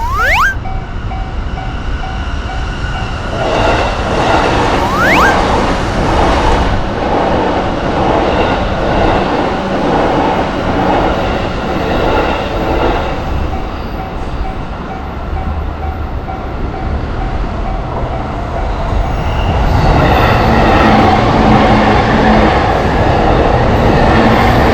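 Electric commuter trains passing a Japanese level crossing, with a steady rumble and rail clatter that grows louder near the end. The crossing's warning bell dings in a steady repeating rhythm at the start, and there are two brief rising whistle sounds, one at the start and one about five seconds in.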